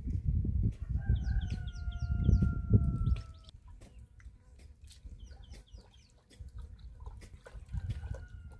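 A rooster crowing, one long drawn-out call that falls slightly in pitch, with another beginning near the end. Small birds chirp in quick high runs, and a low rumbling noise is loudest during the first few seconds.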